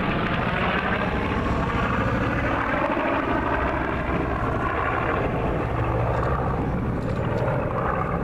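Steady drone of an aircraft's engine as it flies overhead.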